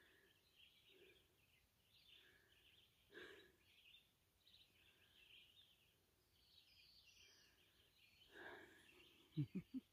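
Near silence with faint bird chirps scattered throughout, then three quick low knocks close together near the end.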